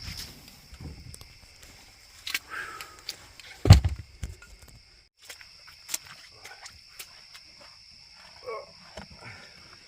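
Night insects giving one steady high trill, with scattered clicks and one loud low thump a little under four seconds in; the trill drops out briefly about five seconds in.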